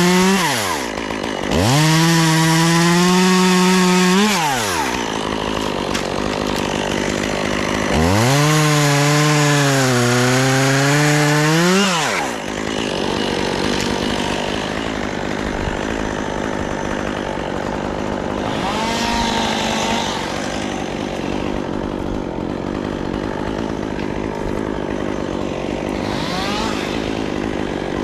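Chainsaw revved to full throttle twice, briefly near the start and again for about four seconds a third of the way in, its pitch sagging and recovering as it works through wood. Between and after the revs it runs at a lower, rougher speed, with two short throttle blips later on.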